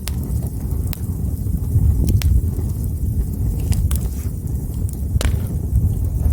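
Wood fire burning, with a steady low rumble and sharp crackles and pops every second or so; the strongest pop comes about five seconds in.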